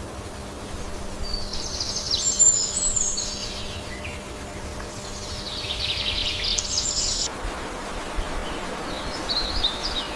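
A small songbird singing three long phrases of rapid, high-pitched notes, over a steady low rumble of background noise.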